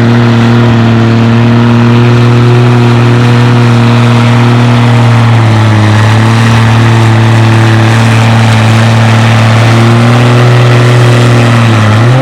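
Antique tractor engine running at steady full throttle under load while pulling the weight-transfer sled, its pitch holding level, then starting to fall right at the end as it throttles back.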